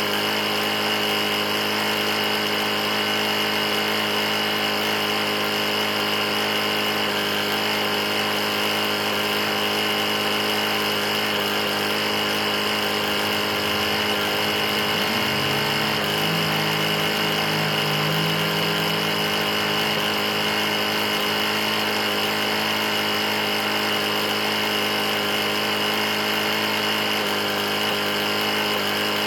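Briggs & Stratton E450 lawn mower engine running steadily under its own power, with an engine knock the owner calls pretty bad. A second, lower hum comes in for a few seconds around the middle.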